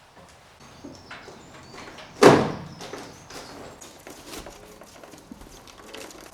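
Faint high cheeps of baby blue tits with scratchy rustling and small knocks, and one loud rustling thump about two seconds in.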